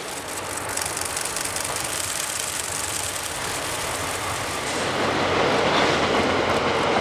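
Sleeper express Cassiopeia, hauled by two diesel locomotives, running past on the line below, growing louder about five seconds in as the long train of coaches rolls by. Rapid clicking runs through the first few seconds.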